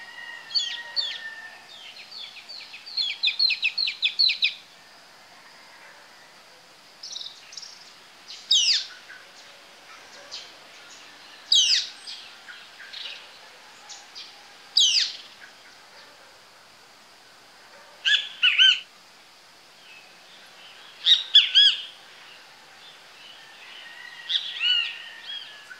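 Birds calling: a quick run of chirps near the start, then loud, sharp downward-sweeping calls every few seconds, and later pairs of calls. A faint steady high tone runs underneath.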